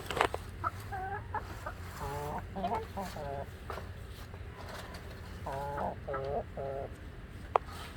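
Chickens clucking: two runs of short, rapid calls with a few single calls before them. A sharp click near the end.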